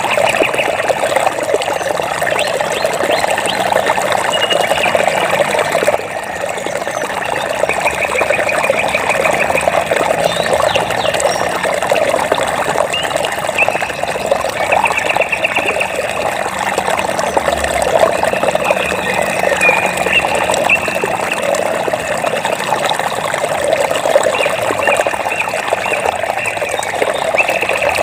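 Running water flowing steadily, with short, rapid, high-pitched trills recurring every few seconds over it.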